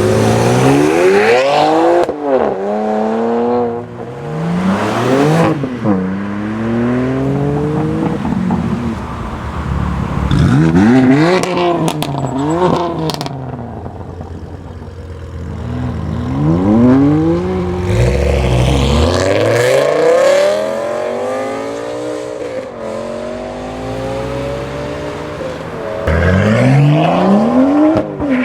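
Modified BMW M cars accelerating hard one after another. Each engine revs up in pitch, drops at each gear change and climbs again as it pulls away, with a few sharp cracks about twelve seconds in.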